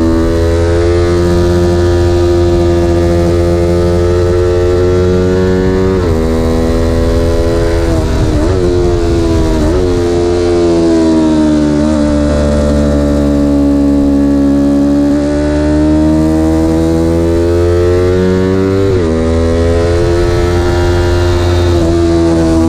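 Vehicle engine running hard, its pitch climbing as it accelerates and dropping sharply at gear changes, about six seconds in and again near the end, with easing off and speeding up in between.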